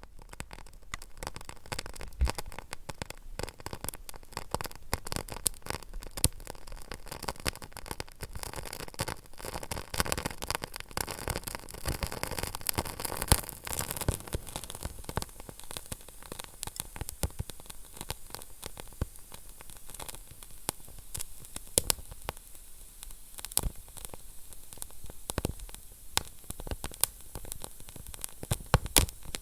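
Wood fire burning in a fireplace: dense crackling and small pops over a steady hiss, with a few sharper, louder pops scattered throughout, the loudest about midway.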